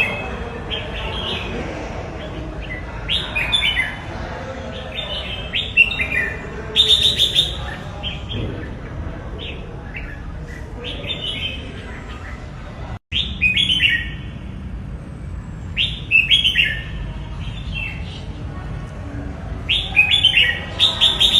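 Red-whiskered bulbul singing: short, quick whistled phrases that come every second or few seconds over a steady low background noise. About two-thirds of the way through, all sound cuts out for a moment.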